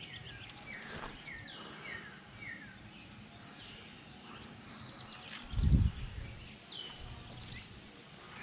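A songbird calling over and over with short whistled notes that fall in pitch. A loud low thump on the microphone comes a little past halfway.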